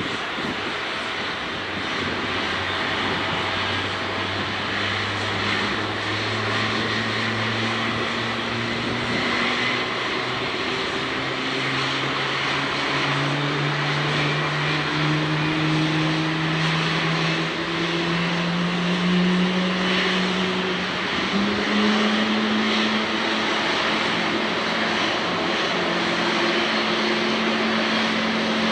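Boeing 777-300ER's jet engine turning during pushback, a steady jet hiss with low tones that climb slowly in pitch as the engine spools up.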